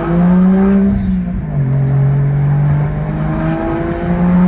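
Turbocharged 1JZ-GTE inline-six accelerating hard, heard from inside the car. The engine note climbs, drops sharply about a second in as it shifts up, then climbs again.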